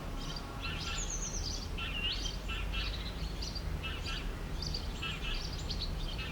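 Several birds chirping and singing in quick runs of short, high notes with a few rising whistles, over a steady low background rumble.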